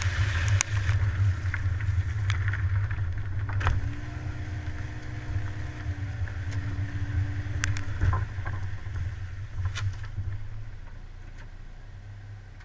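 Car driving, a steady low engine and road rumble with scattered clicks and knocks, heard from a camera mounted on the car. A steady pitched tone sounds for about four seconds in the middle, and the rumble dies down near the end.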